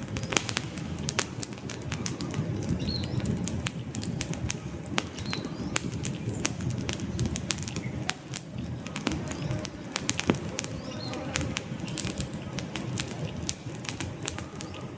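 Wood fire in a fireplace crackling, with frequent sharp pops and snaps of burning logs over a low, steady rumble of flames.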